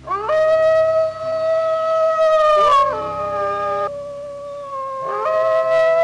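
Gray wolves howling in long, overlapping howls, each rising at its start and then held level. One falls away about halfway through, and a fresh howl rises about five seconds in.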